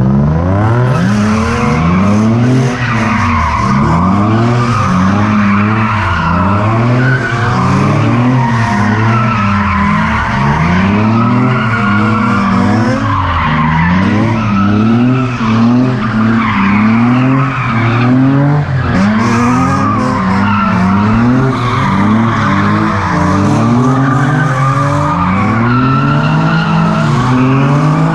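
A car drifting, its tyres squealing without a break while the engine revs rise and fall again and again, about once a second, as the throttle is worked.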